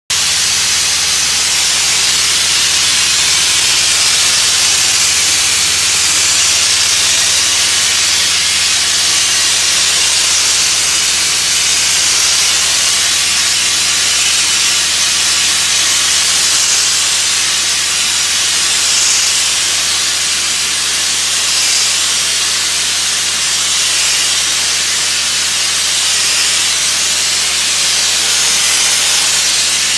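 Abrasive blasting nozzle hissing steadily as grit blasts antifoul paint off a yacht hull, with a low steady hum underneath.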